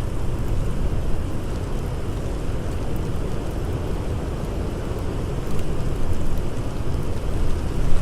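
Howling blizzard wind, a dense low rushing noise that swells slightly in the second half, with a few faint crackles from a campfire.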